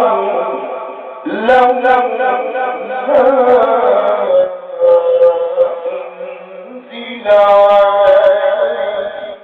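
A man reciting the Quran in the melodic tajweed style, with long ornamented phrases. A note is held for a few seconds in the middle, and a louder phrase begins near the end.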